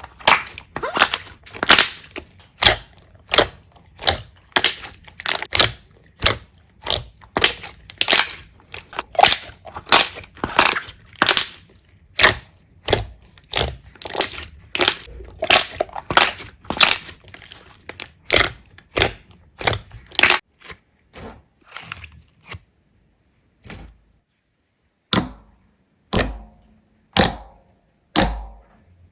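Slime being squeezed and pressed by hand, giving sharp crackling pops about two a second. They thin out, stop for a few seconds, and come back as a few single pops near the end.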